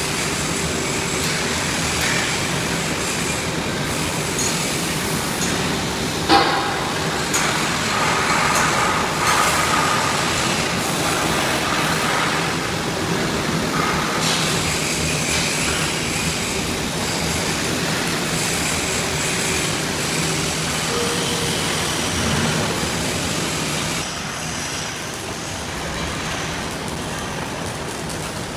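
Steel fabrication shop noise: a loud, steady din of machinery and metalwork, with a sharp metallic clang about six seconds in.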